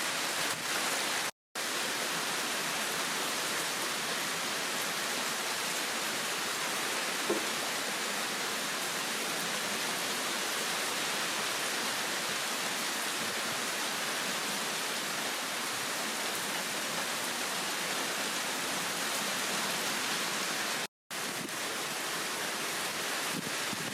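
Heavy rain pouring steadily, an even hiss of a downpour, broken twice by a split-second dropout.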